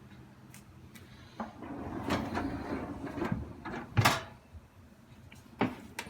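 Parts of a Midea dishwasher being handled: a rumbling slide of a rack or part, then a sharp plastic clack about four seconds in and two lighter knocks near the end.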